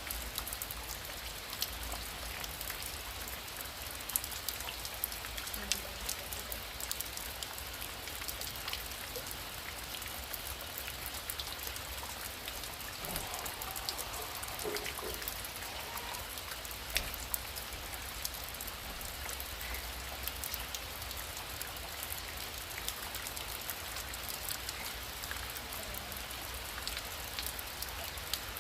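Heavy rain falling steadily, with many individual drops ticking sharply on a surface over a continuous hiss.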